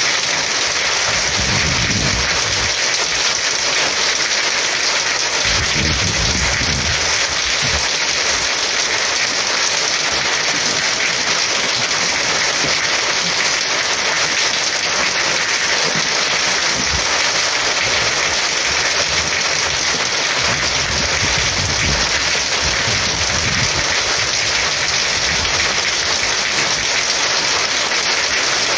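Heavy rain pouring steadily on surfaces, a dense even hiss, with a few brief low rumbles underneath.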